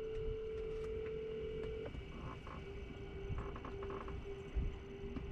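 Telephone ringback tone as an outgoing call rings: a steady tone for about two seconds at the start, then short clusters of beeps in the middle.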